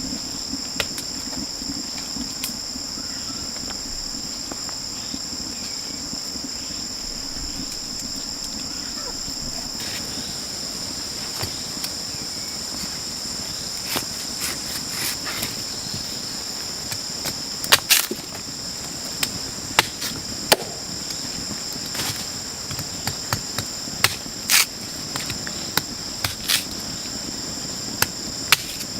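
A steady, high-pitched chorus of rainforest insects, with sharp, irregular knocks and taps starting about a third of the way in and coming more often in the second half, typical of wood being struck or chopped while a shelter is built.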